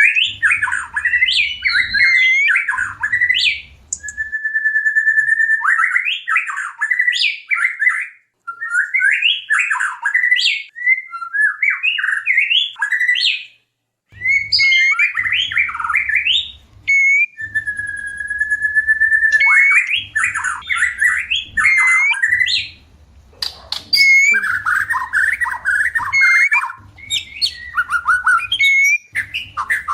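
White-rumped shama in breeding condition singing loudly: rapid, varied phrases of whistles, chatters and trills with short pauses between them, including a long steady whistle about five seconds in and again about seventeen seconds in.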